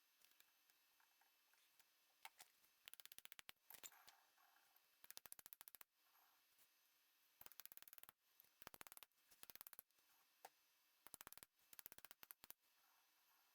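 Short runs of rapid, evenly spaced clicking, about six bursts each lasting under a second, over faint room tone.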